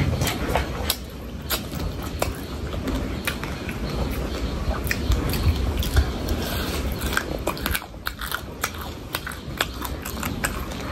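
Close-miked chewing and biting of food, with frequent short wet mouth clicks and smacks.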